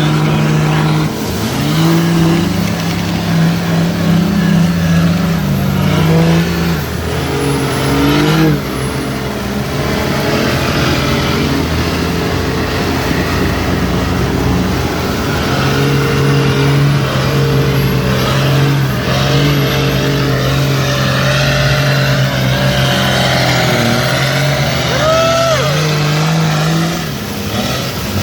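Big off-road mud truck engines running, the pitch rising and falling as they rev several times, with a brief higher squeal near the end.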